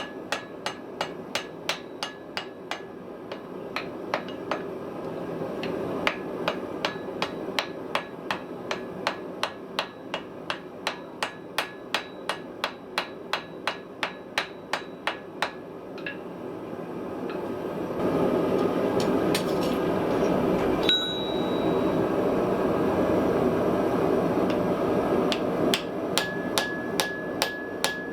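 Blacksmith's hammer striking metal on an anvil in a steady rhythm of about three blows a second, while forging wrought iron and steel. The blows pause for several seconds past the middle, when a louder steady rushing noise takes over, then the hammering resumes near the end.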